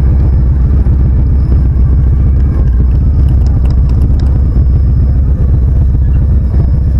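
Motorcycle engine running steadily and loudly while riding.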